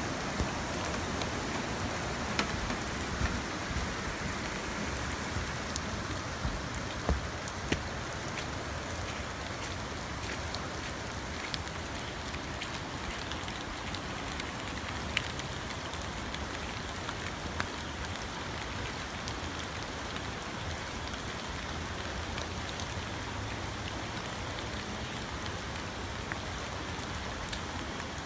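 Steady hiss of rain, with scattered sharp drip ticks that come most often in the first eight seconds.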